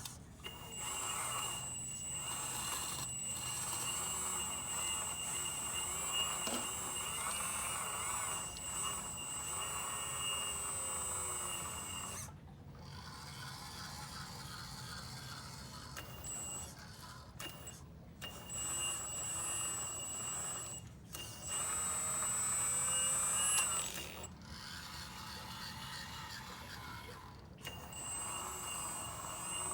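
The hydraulic pump of a radio-controlled Cat 330D model excavator whines steadily as its electric motor runs, over a rough mechanical running noise. The whine stops and restarts several times as the controls are worked, with the longest pause about two-thirds of the way through.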